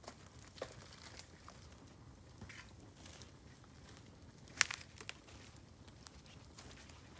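Bamboo burning in an open fire: scattered crackles and sharp pops, the loudest pop a little past halfway.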